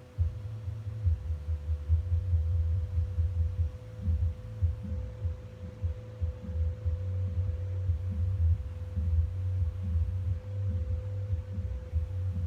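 Hampton Bay Cameron II Plus ceiling fan running, with a steady motor hum over a low, uneven throbbing rumble of air from the blades buffeting the microphone.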